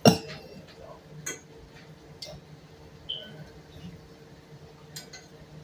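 A few light, sharp clicks and taps spaced a second or more apart, over a faint steady hum, with one brief high chirp about halfway through.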